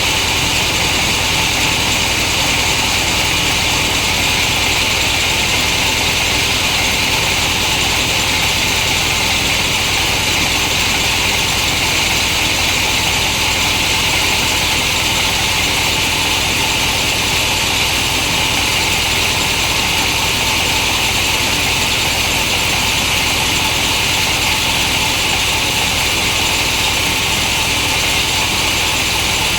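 Large chainsaw running steadily at a constant pitch, ripping a hardwood log lengthwise.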